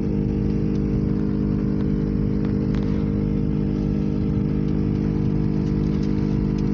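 Steady hum of a Dodge's heater blower inside the moving car's cabin, over a low rumble of engine and road.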